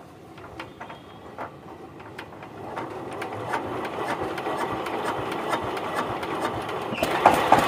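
Old diesel engine being hand-cranked, its rapid mechanical clatter speeding up and growing louder, then running louder from about seven seconds in as it fires.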